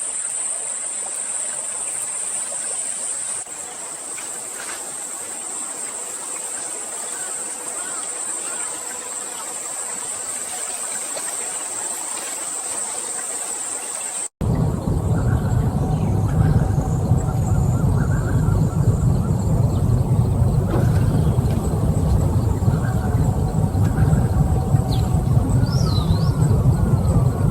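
Outdoor ambience in two parts. First a steady high insect drone, like crickets, over a soft hiss. Then, after a sudden cut about halfway, a louder low rumble like wind, with a few faint bird chirps near the end.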